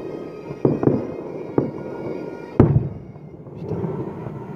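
Fireworks display: aerial shells bursting with sharp bangs, four of them, the loudest about two and a half seconds in and followed by an echo.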